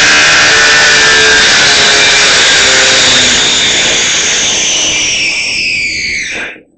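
Electric power tool running at full speed with a high whine, then switched off about three seconds in, its motor winding down in falling pitch and stopping near the end.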